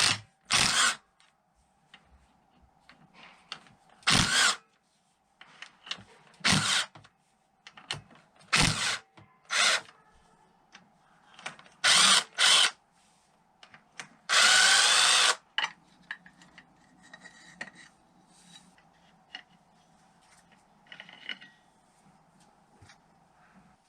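Electric power drill-driver run in about nine short bursts, the longest lasting nearly a second with its pitch sliding, with faint clinks of parts and tools handled between the bursts.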